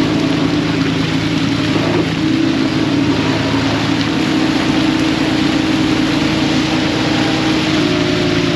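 Fishing boat's engine running steadily under a rushing hiss of water and wind, its pitch shifting slightly about two seconds in and again near the end.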